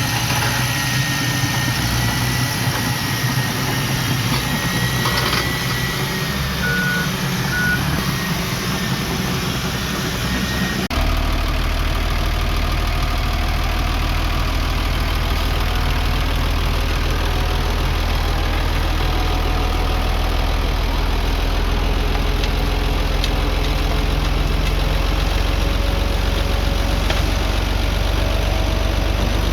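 Heavy diesel engines of earthmoving machinery running. About eleven seconds in the sound changes abruptly to a steadier, deeper drone.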